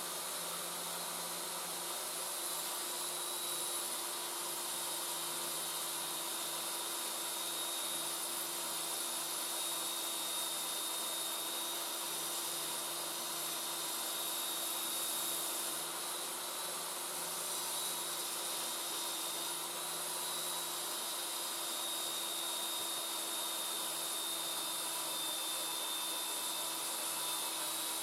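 Home-made belt grinder running steadily at speed: an even rushing hiss from the motor and belt, with a faint constant whine.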